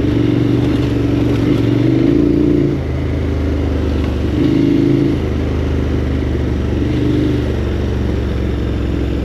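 KTM 1290 Super Adventure R's V-twin engine running on the move, its note swelling and easing several times as the throttle is opened and rolled off.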